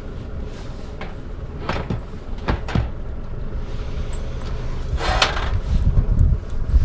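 A few sharp knocks and clatters of gear being handled, about four over several seconds, the clearest around five seconds in, over a low rumble of wind on the microphone.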